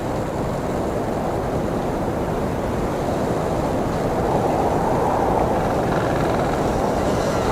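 Blizzard wind blowing as a steady low rush of noise, swelling louder in a gust about four seconds in.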